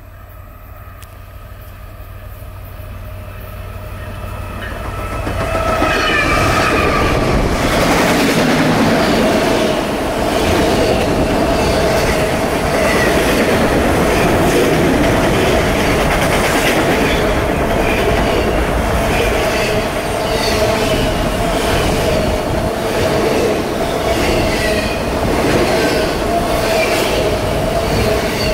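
Diesel freight train, CSX, approaching and passing: the sound grows louder over the first six seconds as the locomotive nears, then a long string of autorack cars rolls by with a steady rumble, a thin ringing wheel squeal and repeated clicking of wheels over the rail joints.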